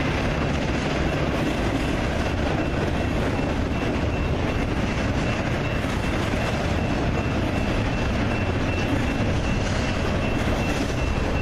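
Double-stack intermodal freight train cars rolling past, a steady rumble of steel wheels on rail.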